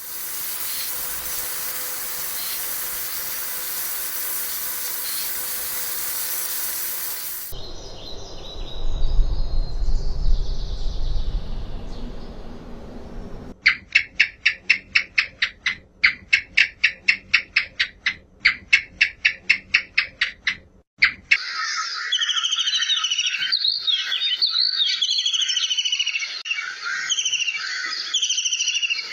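A run of separate animal-sound clips. It opens with a steady hiss for about seven seconds and a low rumble after it. From about halfway it gives way to birds: a fast, even series of chirps, about four or five a second, then a dense flock-like chatter of short falling calls.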